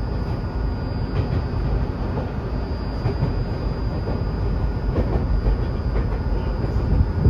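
Tokyu 2020 series electric train running between stations, heard from inside the passenger car: a steady rumble of wheels on track with a few faint rail-joint clicks and a thin, steady high whine. The rumble swells just before the end.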